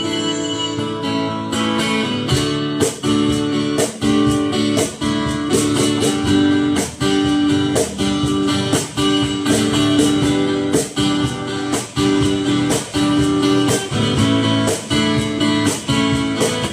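Acoustic guitar strummed in a steady rhythm, chords ringing between regular strokes, with no singing.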